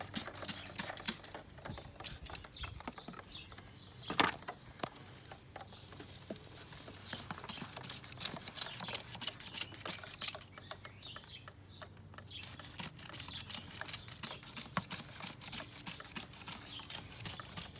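Stiff brush scrubbing a paraffin-soaked motorcycle chain in quick repeated strokes, bristles rasping over the metal links, with short pauses and a single louder knock about four seconds in.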